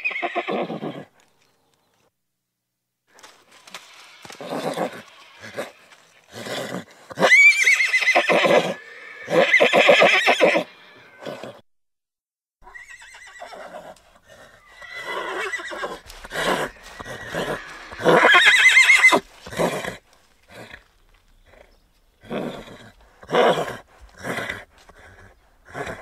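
A horse whinnying again and again. Two long whinnies, each opening with a rising squeal, come about a quarter and two-thirds of the way through, with shorter calls between them and a run of short, quick calls near the end.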